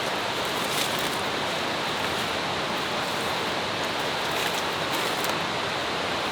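Steady rush of nearby falling water from a jungle waterfall, an even roar with no pauses, with a few faint crackles over it.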